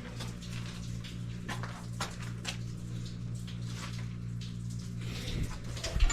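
Steady low electrical hum, with scattered light ticks and taps over it and a sharp thump near the end.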